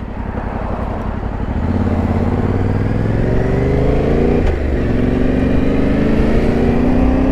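Yamaha Ténéré 700's parallel-twin engine accelerating, its pitch rising steadily. It shifts up a gear about four and a half seconds in, then rises again in the next gear.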